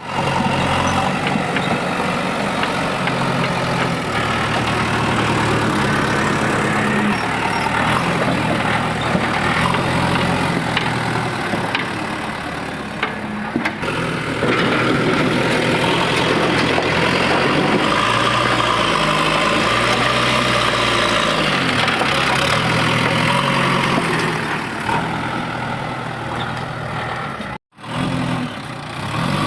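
Diesel engine of a working backhoe loader running, its pitch stepping up and down as the machine is worked. The sound cuts out abruptly near the end, then comes back.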